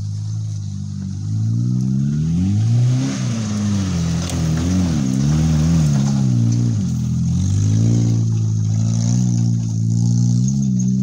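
Engine of a roll-caged off-road 4x4 revving up and down several times as it climbs a dirt track, with tyres scrabbling in loose dirt, then running at a steadier pitch for the last few seconds.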